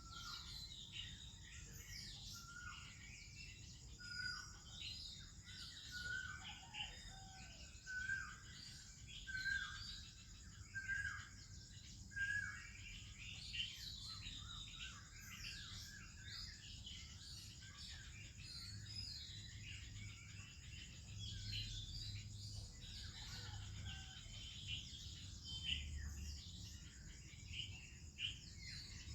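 Morning bird chorus: many birds chirping and singing, including an Oriental magpie-robin. In the first part one bird repeats a short whistled note about every second and a half. A faint steady high-pitched whine runs underneath.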